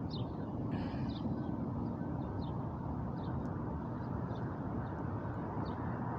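Steady low rumble of outdoor background, like distant traffic, with short high bird chirps every so often.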